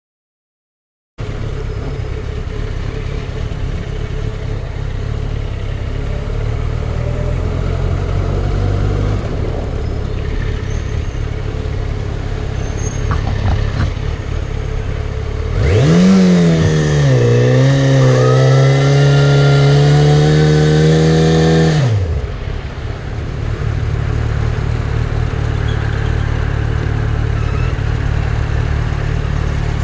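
Motorcycle engine running steadily under way, with a louder engine note for about six seconds in the middle whose pitch dips, then climbs and holds before cutting off.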